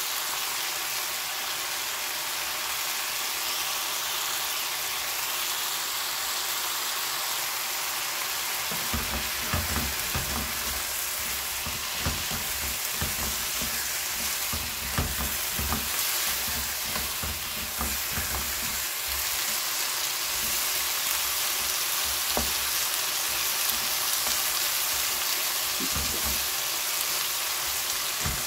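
Sundae (Korean blood sausage) and vegetables sizzling steadily as they stir-fry over high heat in a nonstick wok. From about nine seconds in, a spatula stirs and knocks irregularly against the pan.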